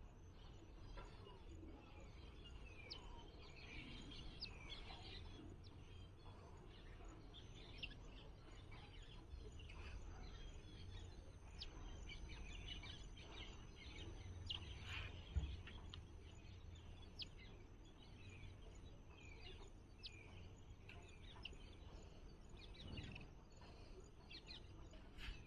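Faint, scattered chirps and short calls of several small birds over a low steady background rumble.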